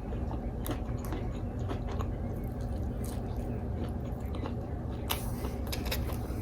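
A person chewing and biting into takeout food, with scattered short crunches and a brief noisy burst about five seconds in, over a steady low hum.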